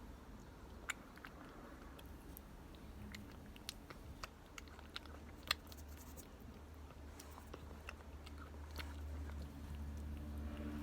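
Cat eating, biting and chewing its food: a run of irregular sharp clicks over a low steady hum.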